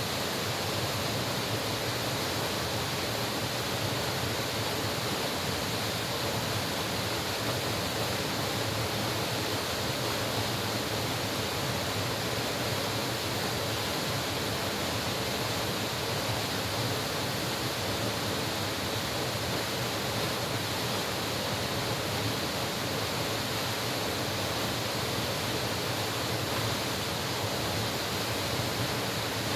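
Mountain valley stream rushing over rocks: a steady, unbroken wash of running water.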